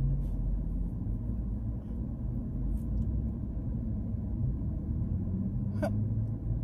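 Steady low rumble of a car with its engine running, heard from inside the cabin. Near the end comes one short rising squeak with a click.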